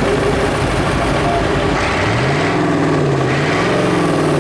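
Tractor's Perkins V8 diesel engine running, blipped up in revs about halfway through, easing back, then revved again near the end before dropping.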